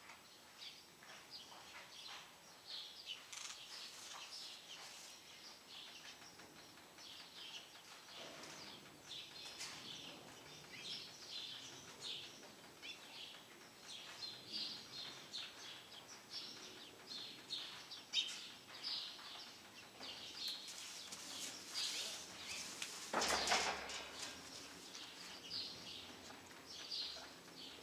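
Small birds chirping on and off in quick, high-pitched calls. A louder burst of noise about a second long comes near the end.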